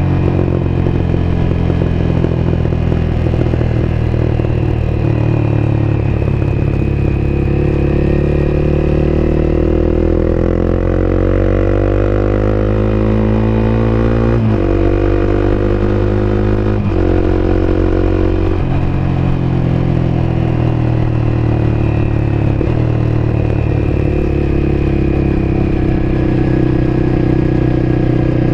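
Honda CBR250R's single-cylinder engine running steadily under way. Around halfway it climbs in pitch under acceleration, then drops abruptly twice in quick succession as it shifts up, and settles to an even run with a couple of small easings later on.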